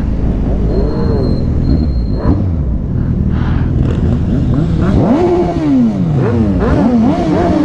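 Sport motorcycle engines revving up and dropping back several times, the pitch rising and falling in quick arcs, over a steady low rumble of riding noise.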